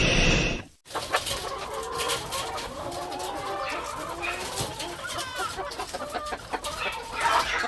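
Chickens clucking, with many short calls and pecking-like clicks. A loud rushing noise cuts off suddenly in the first second.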